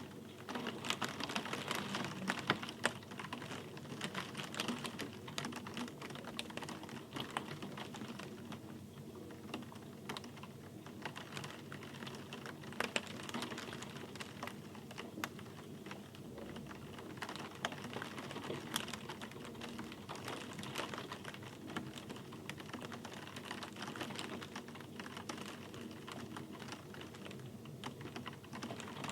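Steady rain, with many separate drops clicking irregularly on a hard surface over a soft hiss.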